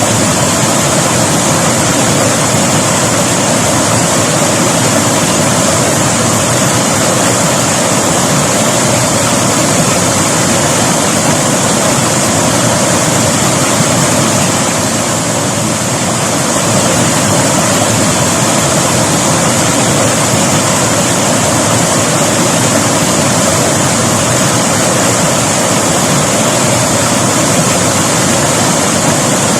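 River water rushing and splashing over rocks in a loud, steady hiss that eases off briefly about halfway through.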